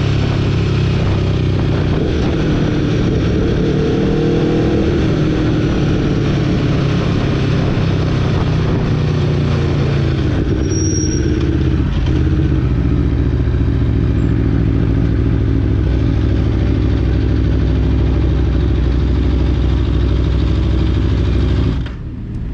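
Aprilia Tuono V4 motorcycle's V4 engine running steadily, its pitch shifting a little in the first few seconds. The level drops suddenly near the end.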